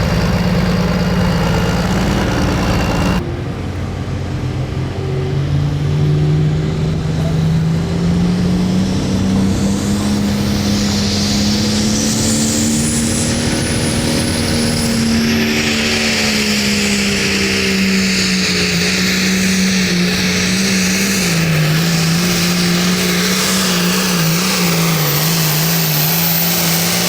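Hot farm class pulling tractor's turbocharged diesel engine running hard under load on a sled pull. Its pitch climbs for several seconds, then sags and wavers as the tractor bogs down the track, with a high whistle rising partway through.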